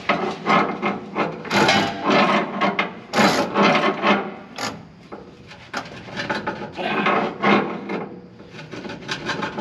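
Irregular rasping, scraping strokes of hand-tool work on metal, about two a second, as the seized engine of a 1959 Ford F700 is worked around by hand past a tight spot.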